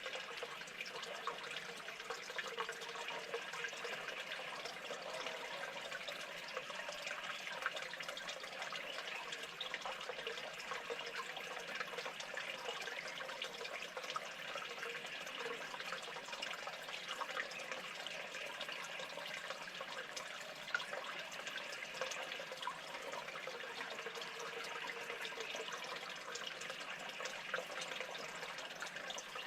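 Steady running, trickling water, a constant wash dotted with many small drips and ticks.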